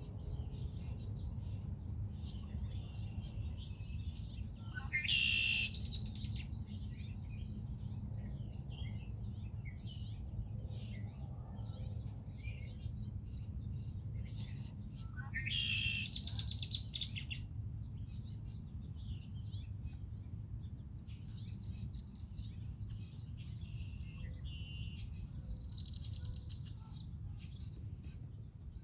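Red-winged blackbirds singing and calling: two loud, buzzy trilled songs about ten seconds apart, with softer chirps between them, over a steady low rumble.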